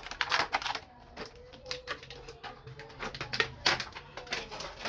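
Small hard toy pieces of a miniature kitchen set clicking and tapping as they are handled and set down, in irregular quick knocks. A faint wavering low tone runs under them through the middle.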